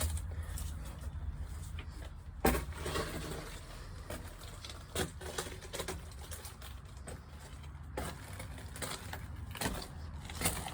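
Scuffing and scattered sharp knocks of someone clambering through a narrow culvert, with a low rumble underneath.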